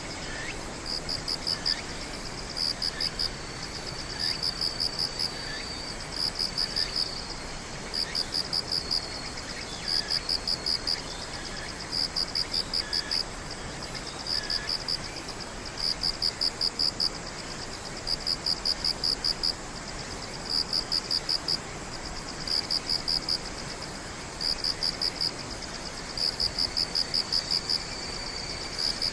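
Insects singing: a cricket's chirping, each chirp a quick run of high pulses, repeating about every one and a half seconds over a faint steady high trill. A few faint short calls sound lower down in the first half.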